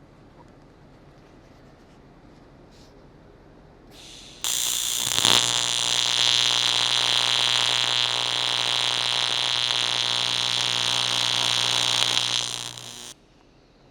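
AC TIG welding arc on the aluminum fuel tank: a steady buzz with hiss that starts suddenly about four seconds in, holds for about nine seconds, then eases off and cuts out.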